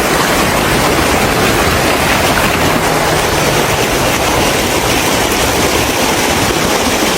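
Loud, steady rushing of storm floodwater, an unbroken roar of water with no pauses.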